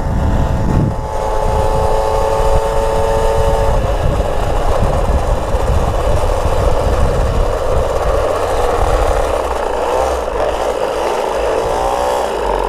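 Small two-stroke moped engine running under way. Its pitch holds steady for the first few seconds, then goes rougher, and rises and falls near the end as the throttle changes.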